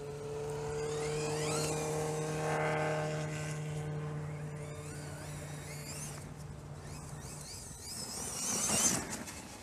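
Brushless electric motor of a 1/8-scale electric RC monster truck (Tekin Redline T8, 2000 kV on a 4S battery) whining up in pitch as the truck accelerates in several bursts, the loudest and highest near the end, over a steady low hum that stops about three-quarters of the way through.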